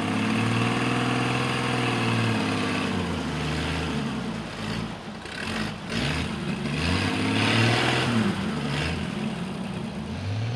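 1938 GMC truck's flathead six running in gear, its engine speed rising and falling several times as the truck moves, with a brief drop about five seconds in. The clutch is stuck, so the engine was started in gear.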